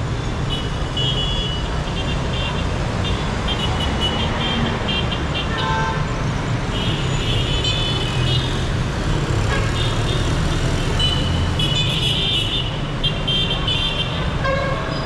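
Busy city street traffic: a steady rumble of engines and tyres, with car horns honking in short toots again and again.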